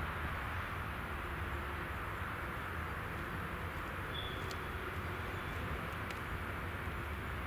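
Train rolling past, a steady rumble and hiss with a few faint clicks.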